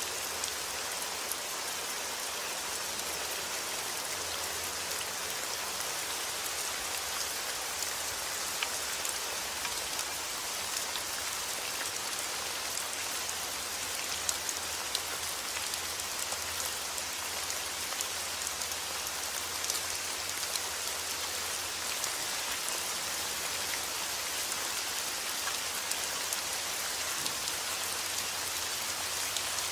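Heavy rain falling steadily outdoors: a dense, even hiss with separate drops ticking through it.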